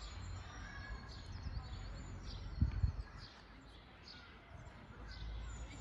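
Forest birds chirping and calling, with many short high notes and quick downward-sweeping calls overlapping. Underneath runs a low rumble, and a brief low thump comes a little under three seconds in.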